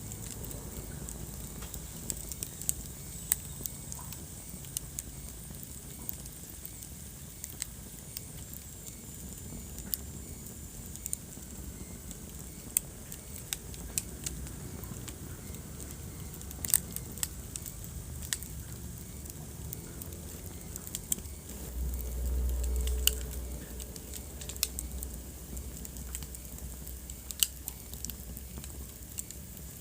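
Wood fire in a fireplace crackling, with scattered sharp pops over a low steady rumble of the flames. The rumble swells briefly a little over twenty seconds in.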